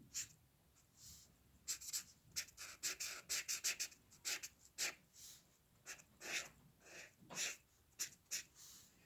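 Drawing strokes on paper: short scratchy strokes of a drawing tool, with a quick flurry of them about two seconds in, then slower single strokes.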